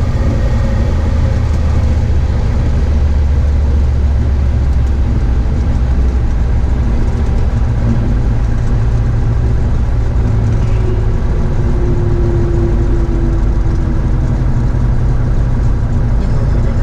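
Single-engine Cessna 172H's piston engine running steadily, a continuous low drone.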